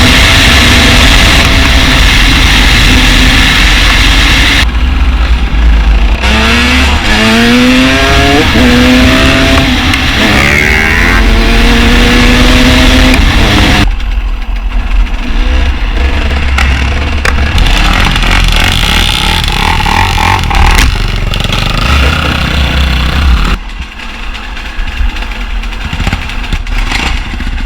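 Dirt bike engine revving and accelerating, its pitch climbing in several rising steps as it shifts up through the gears. About halfway through it drops to lower, uneven throttle.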